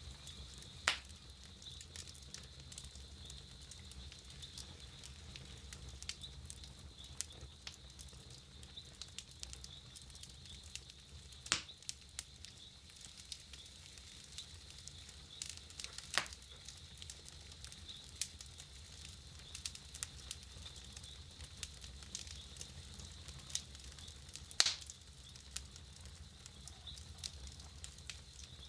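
Wood campfire crackling: a steady run of small clicks, with a few louder, sharper pops.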